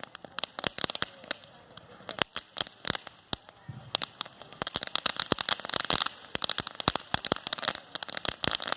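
Fireworks crackling: a dense, irregular run of sharp pops and cracks that thickens about halfway through.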